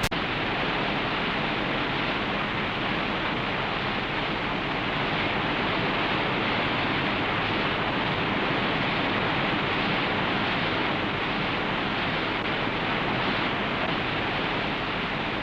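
White-water river rapids rushing: a steady, even roar of running water that does not let up.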